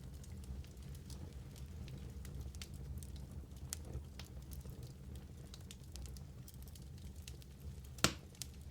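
Wood fire burning in a fireplace: a steady low rumble with scattered small crackles, and one sharp, louder pop about eight seconds in.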